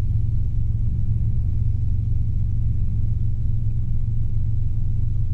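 Steady low drone of a Robinson R22 helicopter's engine and rotors in forward flight, heard inside the cockpit.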